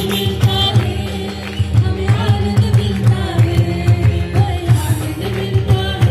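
Worship music: a choir singing over instrumental accompaniment with a steady beat.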